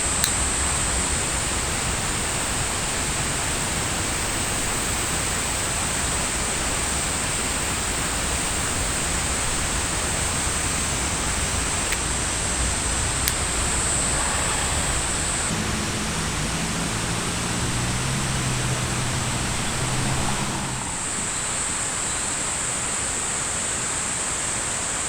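Forest ambience: a steady rushing noise with a continuous high-pitched drone like summer cicadas. The drone breaks off for about five seconds in the middle, and a faint low hum is heard in the gap.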